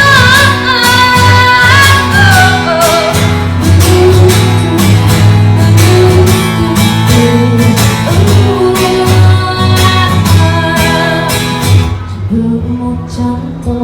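Acoustic guitar strummed steadily in a live song, with a voice holding wavering notes over it at first. About twelve seconds in, the strumming gives way to softer playing.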